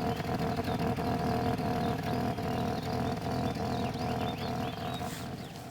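BMW 540i's 4.0-litre V8 idling with an uneven, lumpy beat, a misfire-like roughness that turned out to come from its worn Nikasil-lined block. A steady whine runs over it and stops shortly before the end.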